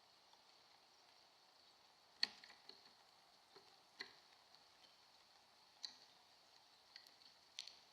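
Scattered sharp clicks and taps, four louder ones roughly two seconds apart with a few softer ones between, over a faint steady high hiss: brown-headed cowbirds pecking at food.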